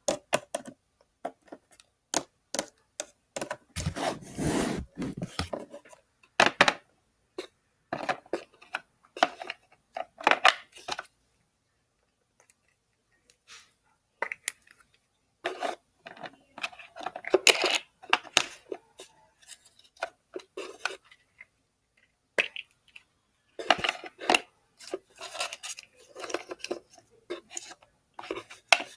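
Small plastic toy figures and playset pieces being handled: scattered clicks, taps and light clatter of hard plastic, with a longer rubbing noise about four seconds in.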